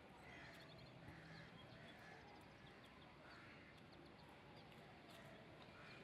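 Faint outdoor ambience with birds calling: harsh, crow-like caws every second or so and small chirps, over a low hiss.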